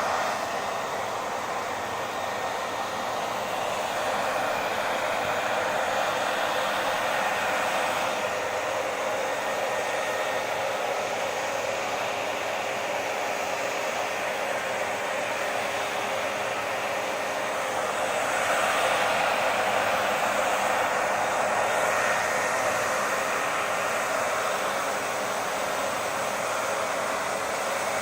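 Hair dryer running continuously: a steady rush of blown air over the motor's hum, with a slight swell in loudness about two-thirds of the way through.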